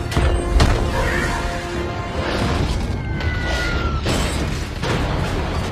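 Action-film battle soundtrack: score music mixed with heavy booms and impacts. There is a sharp hit about half a second in, a brief falling whine in the middle, and two more hits later on.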